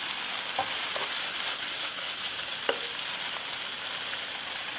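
Chicken livers, basil and chilies sizzling steadily as they are stir-fried in a pan, with a few light clicks in the first three seconds.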